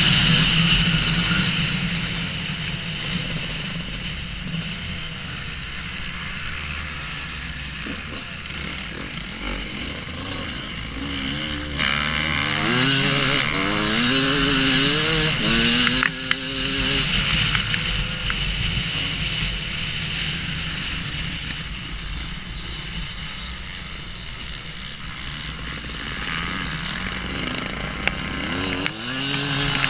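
Husqvarna WR250 two-stroke enduro engine revving on an off-road ride over a steady rushing noise. Its pitch climbs in a run of short pulls about halfway through, and again near the end.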